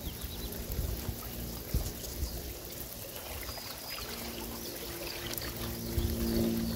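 Rain falling, an even hiss with scattered small drips and ticks. A low steady hum comes in about four seconds in.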